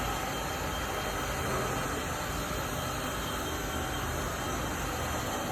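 Honda Civic (EF chassis) running on an RS*R aftermarket exhaust, holding a steady low exhaust note with no revving.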